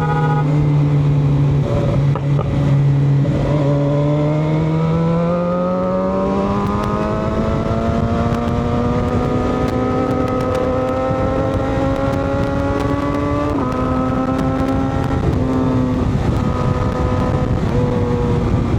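Motorcycle engine pulling under load, its pitch climbing slowly as it gains speed, then dropping suddenly at a gear change about thirteen seconds in.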